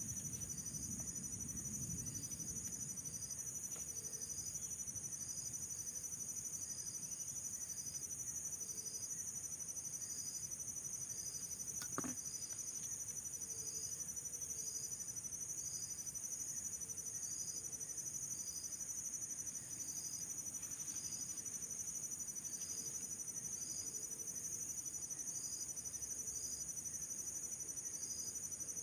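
Steady high-pitched insect chorus, with a short chirp repeating about once a second and a single click about twelve seconds in.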